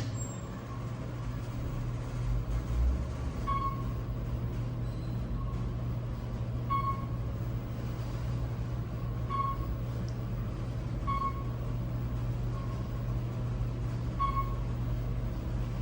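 Elevator car with Otis Elevonic 411 controls riding between floors: a steady low hum of the car and its drive. Six short beeps sound about every two to three seconds.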